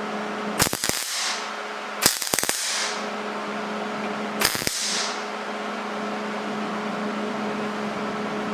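Electric arc welding: three short bursts of crackling arc, each about half a second long, with a steady low hum between them.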